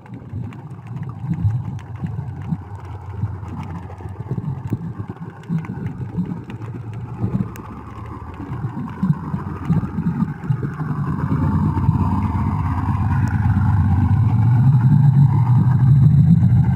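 Low rumbling water noise with scattered clicks, and a motorboat engine heard through the water that grows steadily louder through the second half.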